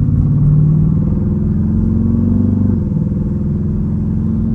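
Jeep Grand Cherokee Trackhawk's 6.2-litre V8, running with its supercharger removed, pulling under light throttle. Its pitch climbs slowly, then drops about three seconds in as the transmission shifts up.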